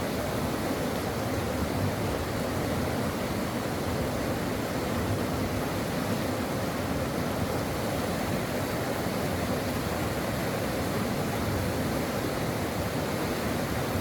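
Brook water flowing over rocks: a steady, unbroken rush of running water.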